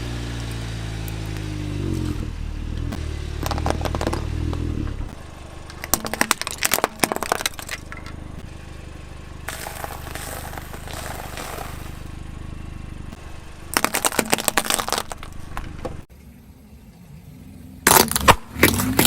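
A car engine running, its pitch rising over the first two seconds, then dying away. A car tyre then crushes brittle objects, giving three clusters of cracking and crunching, the last near the end the loudest.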